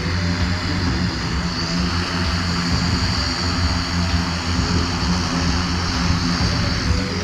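Engine and rotor of a one-person helicopter running steadily with a constant low drone.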